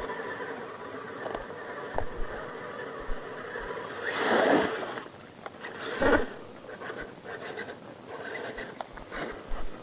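Small motor of a radio-controlled mud truck whining steadily, with two louder surges about four and six seconds in.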